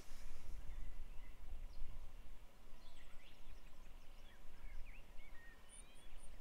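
Wild birds calling, with a run of short chirps and whistled notes starting about halfway through and a few very high chirps near the end, over a steady low rumble.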